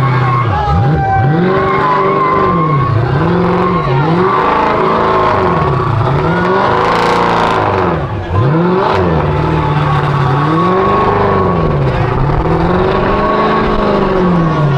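Car engine at full rev, its pitch climbing and falling over and over about every one to two seconds, with tires squealing as the car is spun hard.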